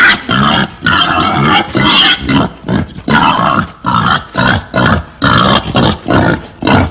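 Wild boar grunting in a rapid, steady series of loud grunts, about two a second: a boar mating call played as a lure for hunting wild boar.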